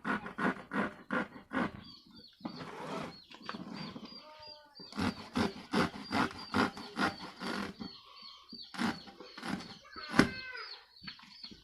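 Rhythmic tool strokes on a used car tyre, about three or four a second, in two runs with a pause between them and a few single strokes near the end.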